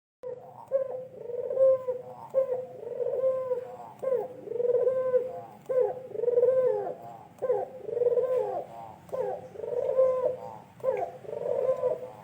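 White pugeru, a dove, cooing steadily in a long run of low, repeated coos, about one phrase a second. The cooing cuts in abruptly.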